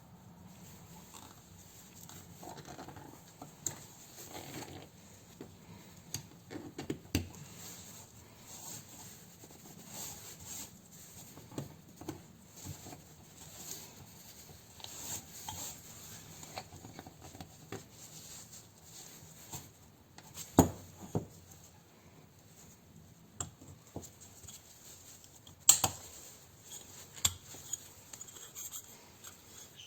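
Irregular light metallic clicks, clinks and taps of tools and engine parts being handled, with two louder knocks about twenty and twenty-six seconds in, over a faint low hum.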